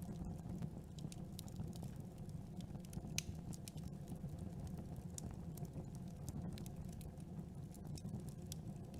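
Campfire crackling: irregular sharp pops and snaps of burning wood over a steady low rumble of the flames, with one louder pop about three seconds in.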